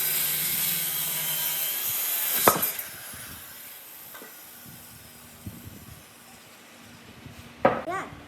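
Wood being worked with a tool: a steady hissing, rasping noise that stops about two and a half seconds in with a sharp knock, then a quieter stretch with a few faint knocks near the end.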